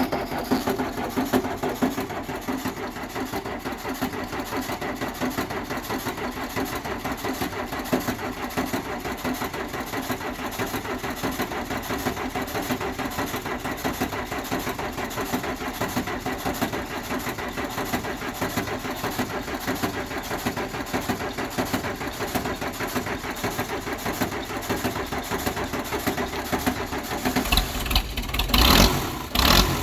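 Case 350 crawler dozer engine on a cold start, with the starter cranking it in a long, steady pulsing run. Near the end it catches and begins to run, with a louder low rumble.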